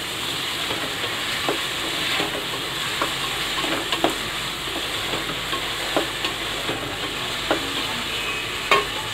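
Chopped onions, tomatoes and green chillies sizzling in oil in an aluminium pressure cooker, stirred with a wooden spatula that knocks against the pot every second or so.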